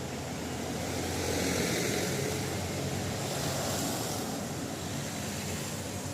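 A vehicle passing: its sound swells from about a second in and fades away near the end, over the steady hiss of falling rain.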